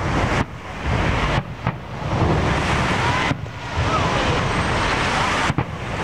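Aerial firework shells bursting in a dense barrage: a continuous rumble of booms with a few sharper cracks.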